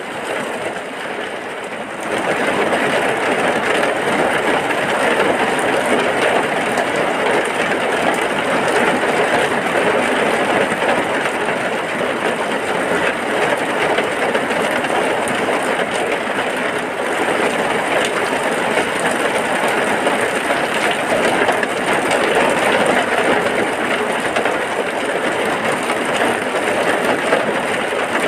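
Heavy rain falling in a steady, even rush, which gets louder about two seconds in.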